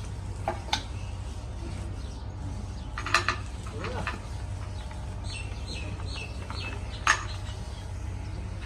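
A few sharp metallic clinks of tools and engine parts being handled, the loudest about seven seconds in, over a steady low hum. A short run of bird chirps comes in just past the middle.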